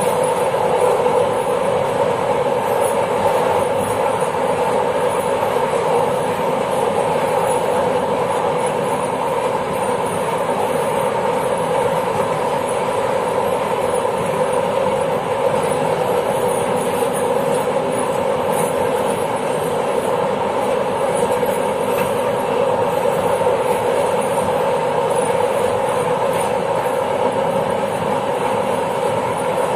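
Passenger train running along the line, heard from inside its rear end: a steady hum and rolling noise of wheels on rails, unchanging throughout.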